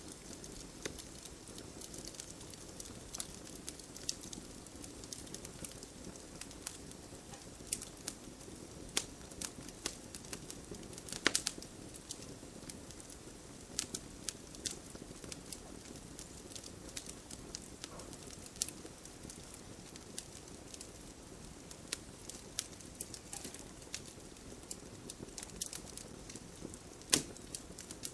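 Wood campfire crackling, with irregular sharp pops and snaps over a low steady hiss; one louder pop about eleven seconds in.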